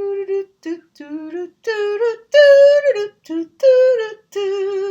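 A woman singing a short unaccompanied tune in a series of held notes with brief gaps between them, ending on a long held note.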